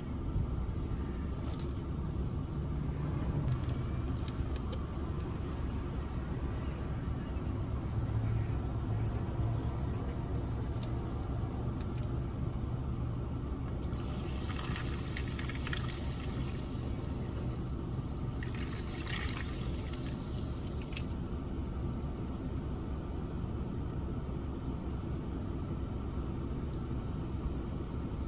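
Steady low vehicle rumble with a constant hum, with a higher hiss joining it for several seconds in the middle.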